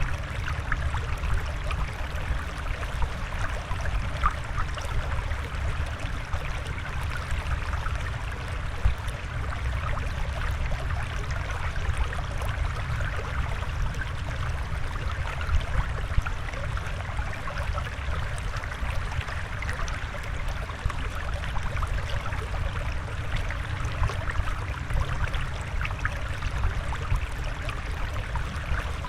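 Steady flowing, trickling water with many small splashes and drips.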